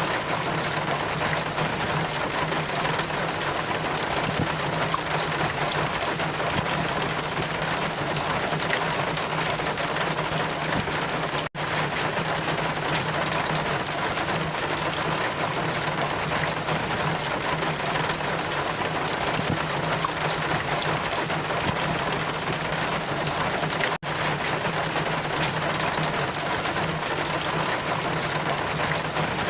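Steady rain with wind, a dense, even hiss with a constant low hum beneath it. It cuts out for an instant twice, about eleven and a half and twenty-four seconds in.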